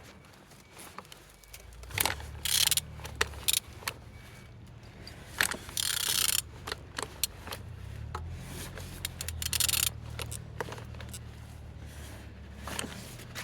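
A used car engine being turned over by hand to show that it rotates freely: scattered metallic clicks, scrapes and jingles over a steady low hum.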